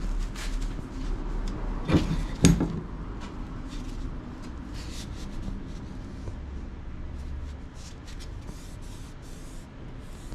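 Two sharp knocks about two seconds in, the second with a brief metallic ring, followed by a series of short scraping and rustling handling sounds.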